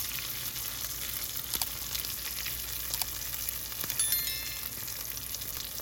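Steak and garlic cloves sizzling in oil in a cast-iron skillet on a low flame, a steady hiss with scattered small crackles and pops. A short stepped electronic chime sounds about four seconds in.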